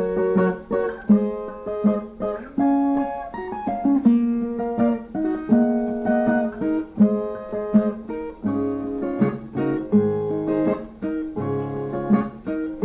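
Brazilian viola, a ten-string steel-strung guitar, playing an instrumental interlude between sung verses: a melody of plucked and strummed notes with no voice.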